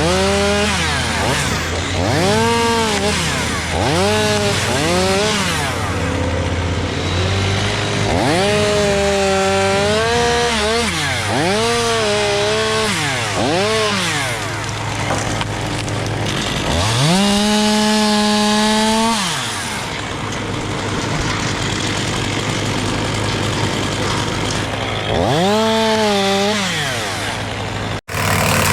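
A chainsaw cutting wood, its engine revving up and dropping back about seven times, held at full speed longest near the middle. A steady low engine hum runs underneath.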